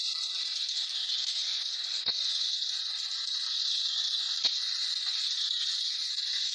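A steady high hiss with two sharp clicks, about two seconds in and again near the middle.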